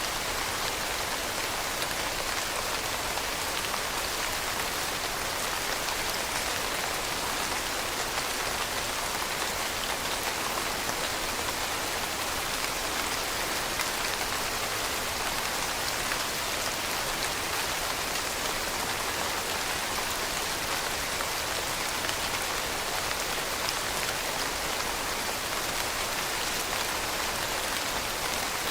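Steady rain with a hiss of many fine drops falling on a surface. It runs evenly, with no rise or fall.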